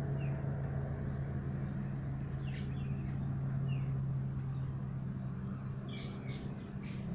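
A steady low hum, with short bird chirps scattered over it and a small cluster of chirps about six seconds in.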